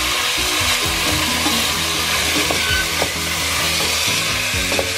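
Raw chicken pieces sizzling in hot oil with onion, garlic and ginger in a stainless steel pot, stirred with a wooden spoon that knocks against the pot a few times.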